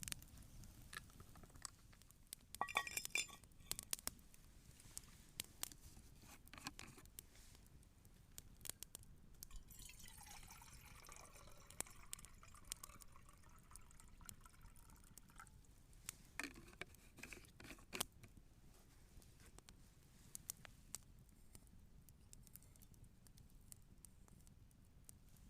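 Liquid being poured for about five seconds in the middle, among light glassy clinks near the start and near the end, over the faint scattered crackle of a campfire.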